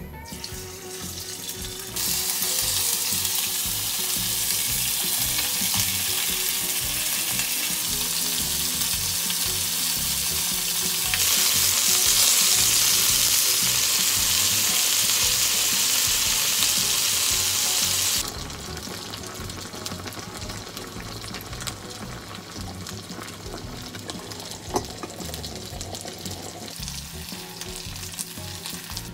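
Food frying in a hot pan, a steady sizzle. It starts suddenly about two seconds in, gets louder about eleven seconds in, and drops to a quieter sizzle about eighteen seconds in.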